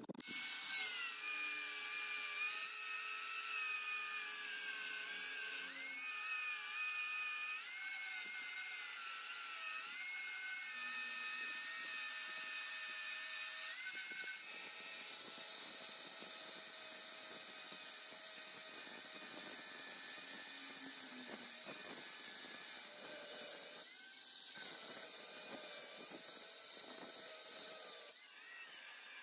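High-speed power tool whining steadily as it works the metal of an old refrigerator compressor. Its pitch shifts up and down with the load during the first half, then settles.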